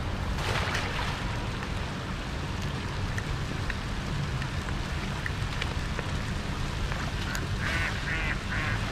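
Steady rain hiss with a low rumble underneath. Near the end comes a short run of rapid, repeated calls.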